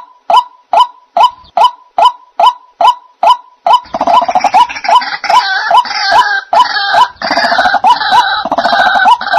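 White-breasted waterhen (dahuk) calling: a steady, monotonous series of short sharp notes, about two and a half a second. About four seconds in a denser, busier run of calls joins in over the repeated note and stops just before the end.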